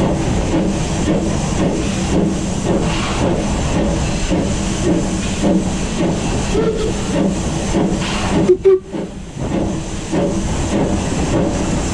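Steam locomotive working under steam: an even beat of exhaust chuffs, about two or three a second, over constant steam hiss. About eight and a half seconds in the sound spikes, then briefly drops away.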